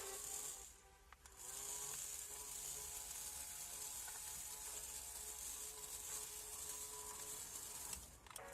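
Battery-powered toy iron giving out its hissing steam sound after its button is pressed. The hiss drops out about a second in, comes back, and cuts off briefly near the end.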